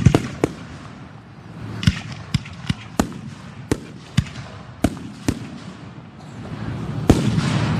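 Aerial fireworks bursting overhead: about a dozen sharp bangs at uneven intervals, with a loud bang and a swell of noise near the end.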